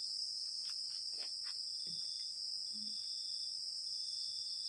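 Steady high-pitched chorus of insects, likely crickets, chirring without a break, with a fainter intermittent trill just below it. A few faint soft sounds come in the first three seconds.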